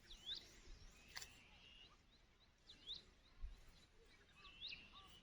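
Faint bird calls: a swooping call repeated three times over a run of short, high chirps at about four a second, with one sharp click about a second in.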